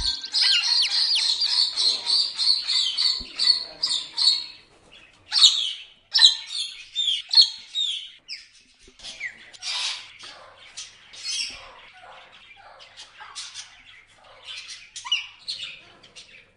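Parrot chirping and squawking in quick high calls, several a second. The calls come thick for the first four seconds or so, then in sparser bursts.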